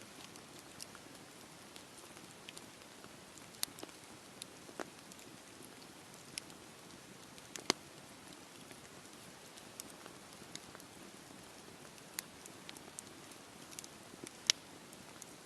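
Wood fire burning in a fireplace: a soft steady hiss with irregular crackles and sharp pops, a few of them louder.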